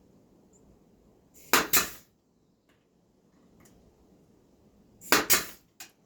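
Nail gun driving two nails into wood, each shot a sharp double crack, about three and a half seconds apart, with a lighter click right after the second.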